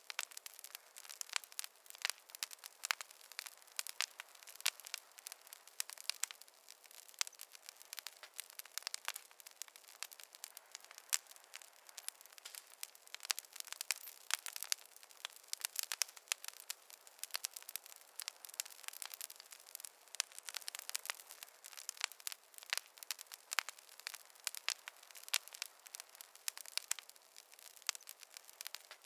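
Wood fire crackling and popping: many small, irregular snaps over a soft hiss of burning.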